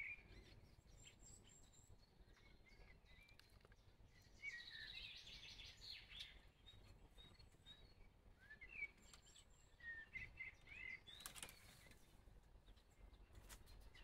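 Faint, scattered chirps of small songbirds over quiet garden ambience, with a brief click about eleven seconds in.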